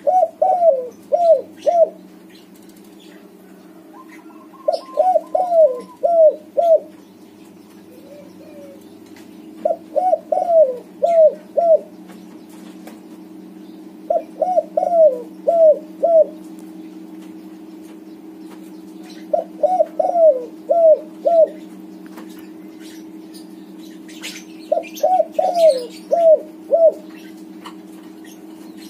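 Spotted dove cooing in repeated phrases of four to five falling coos, a phrase about every five seconds, over a steady low hum.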